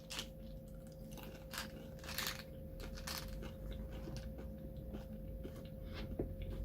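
Candy-coated chocolates being chewed close to the microphone: irregular crisp crunches of the sugar shells, a few to the second.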